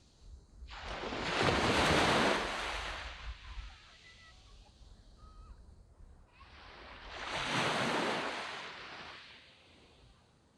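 Waves breaking on a sandy beach. Two waves rush in, one about a second in and one around six and a half seconds, each swelling to a peak and fading back into a quieter wash between them.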